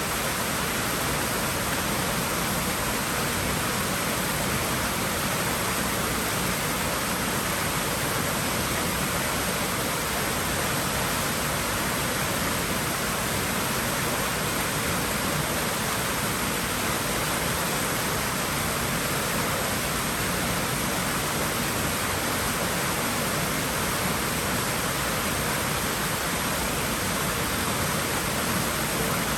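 Water in a swimming pool rushing steadily, an even, unbroken hiss like a small waterfall.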